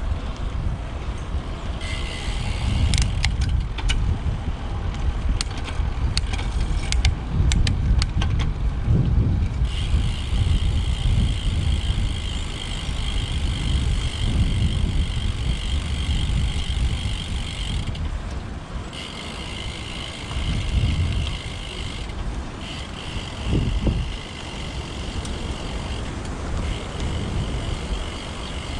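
Riding a road bike: heavy wind rumble on the microphone, with a scatter of sharp clicks in the first third. From about ten seconds in, a steady high-pitched whir comes in and drops out briefly a few times.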